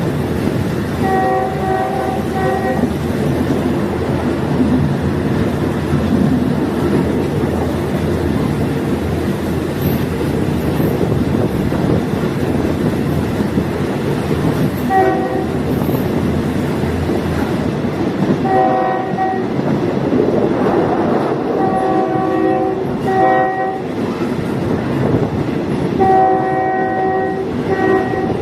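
Diesel multiple unit running on the line with a steady rumble, sounding its horn several times: a long blast near the start, a short toot mid-way, and a cluster of blasts in the last third, one held for about two seconds near the end.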